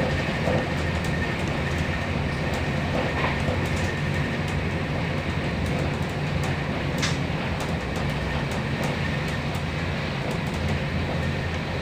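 Moving passenger train heard from inside the carriage: a steady low rumble and running noise, with a few faint clicks, one most noticeable about seven seconds in.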